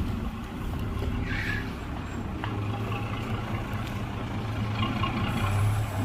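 Heavy diesel earthmoving machinery running steadily, its engine hum building a little louder partway through, with a brief squeak about a second and a half in.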